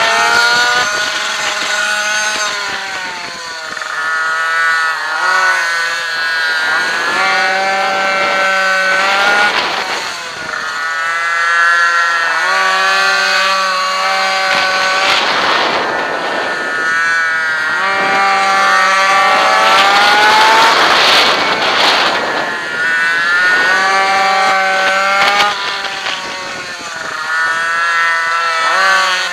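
Two-stroke minimoto engine heard onboard, revving up and down over and over as the bike accelerates and backs off. Short stretches hold a steady pitch between the rising sweeps.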